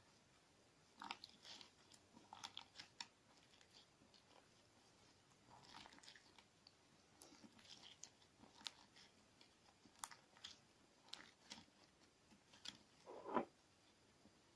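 Sticky clear slime mixed with crunchy sand being worked, giving scattered faint crunches and sharp crackles, the loudest a little before the end.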